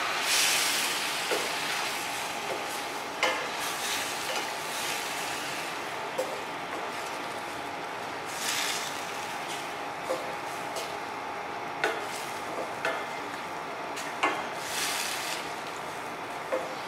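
Squid and vegetables sizzling in a stainless steel pan while a wooden spatula stirs them. The sizzle surges in short hisses three times, and the spatula knocks against the pan about nine times.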